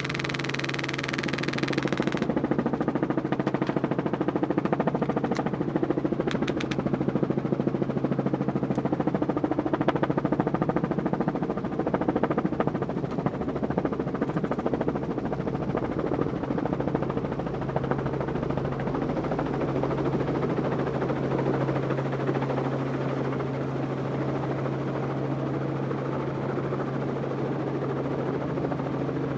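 Helicopter running with a steady hum while airsoft rifles fire rapid automatic bursts, starting about two seconds in and thinning out in the second half.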